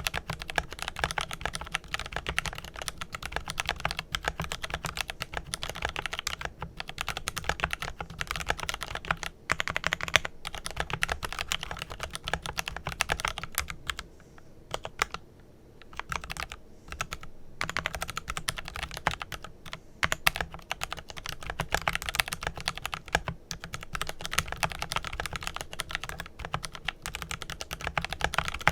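Fast continuous typing on a Glorious GMMK Pro mechanical keyboard with lubed Kailh Pro Purple tactile switches and PBT keycaps, a dense stream of key clacks with a short pause about halfway through.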